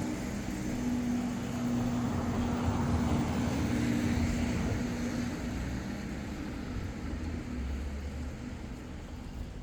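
A motor vehicle passing by, its engine note and road noise swelling to a peak a few seconds in and then slowly fading away.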